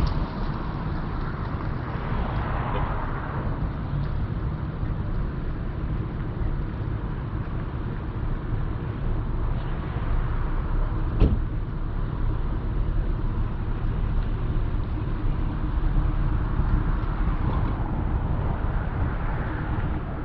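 Car engine running steadily with a low rumble. A single sharp click or knock comes about halfway through.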